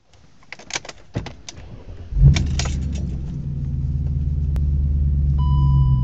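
Keys jingle and click in the ignition, then a car engine is cold-started running without a mass air flow sensor: it catches suddenly about two seconds in and settles into a steady idle that slowly grows louder. A steady electronic beep from the car sounds near the end.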